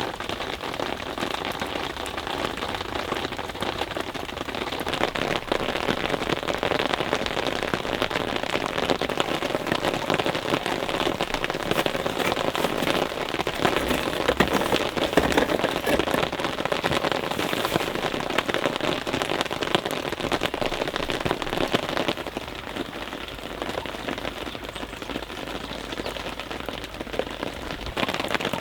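Steady rain pattering down, a dense patter of many small drops that eases a little about two-thirds of the way through.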